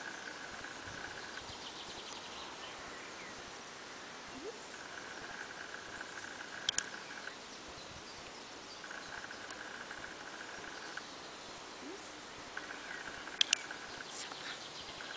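Dog-training clicker clicked twice, about seven seconds apart, each a sharp quick double click. Behind it a faint steady trill comes and goes every couple of seconds.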